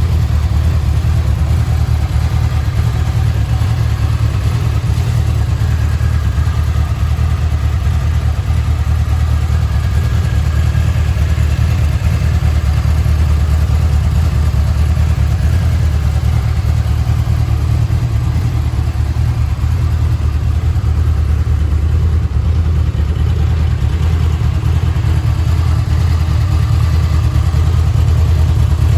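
Honda VFR800F's V4 engine idling steadily.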